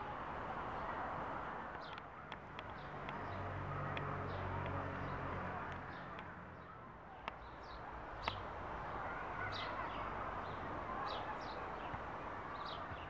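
Small birds chirping in short high calls scattered throughout, over steady outdoor background noise, with a low hum around the middle and two sharp clicks about a second apart.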